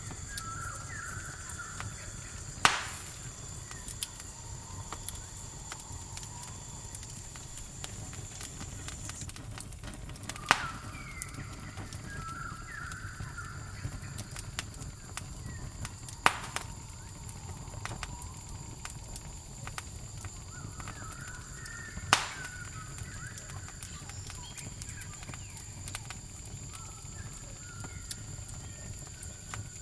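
Campfire crackling with small ticks and four sharp, loud pops spaced several seconds apart. Over it runs a steady high cricket trill that fades for a while in the middle, and short warbling bird calls come and go several times.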